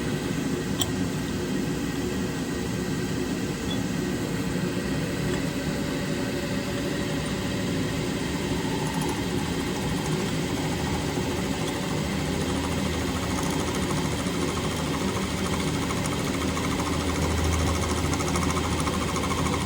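Milling setup running steadily, its cutter taking a light cut on a chainsaw muffler's lug. The low hum grows a little stronger over the last few seconds.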